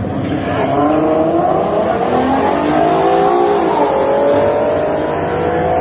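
Race car engines at full throttle accelerating down a drag strip, their pitch climbing steadily, dropping briefly about four seconds in at a gear shift, then climbing again.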